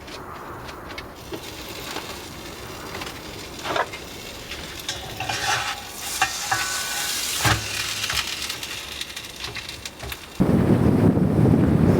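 A quesadilla sizzling in a dry pan with no oil, with a few knocks and clicks of the pan and utensil. Near the end a much louder steady rushing noise starts suddenly and takes over.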